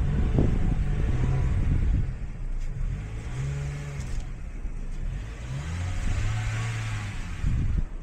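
Car engine revved in about three surges, its pitch rising and falling between them, as a car stuck in deep snow is driven to get it moving.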